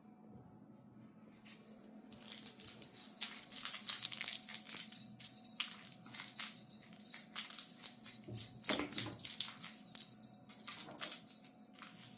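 Kittens scrabbling at and batting a fishing-rod wand toy: a busy run of quick scratches, taps and rustles that begins about two seconds in, with a brief lower-pitched sound about nine seconds in.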